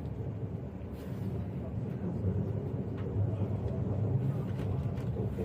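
Interior rumble of an electric commuter train running and slowing into a station: a steady low drone with a few faint clicks from the wheels and track.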